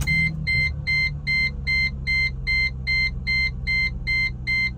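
Mercedes-Benz SLK350's 3.5-litre V6 catching on a cold start and running at a steady idle, while a dashboard warning beeps rapidly, about two and a half beeps a second, louder than the engine.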